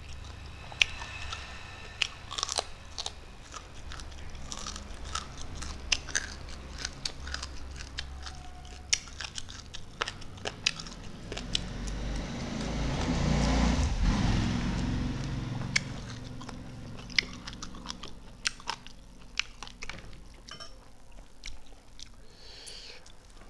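Close-miked eating: biting and chewing fried chicken wings and rice by hand, with frequent short crunches and mouth clicks, and a louder stretch of chewing noise about halfway through.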